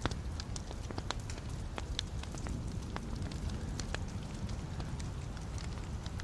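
Wood fire burning in a fireplace, its logs crackling with scattered sharp pops over a low steady rumble of the flames.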